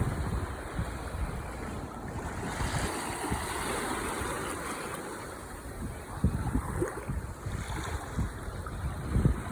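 Ocean waves washing in steadily, with wind buffeting the microphone in low rumbling gusts, the strongest about six and nine seconds in.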